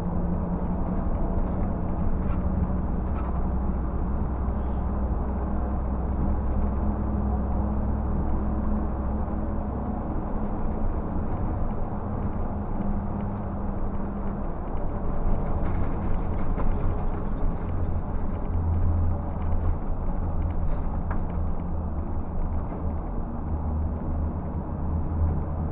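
Scania K124 360 bus's straight-six diesel engine running on the move, heard from inside the bus with a steady road rumble. The engine note shifts about halfway through.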